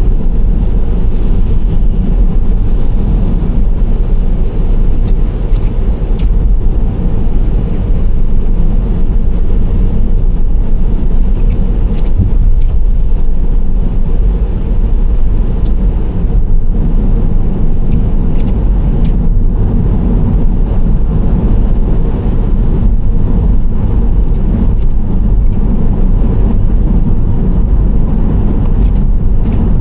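Nissan Serena C25 minivan driving at steady speed: continuous low road and engine rumble, with faint light ticks scattered throughout.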